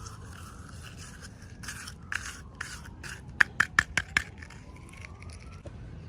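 Hands handling miniature toy packaging: scraping and rustling, then a quick run of five sharp clicks a little over halfway through.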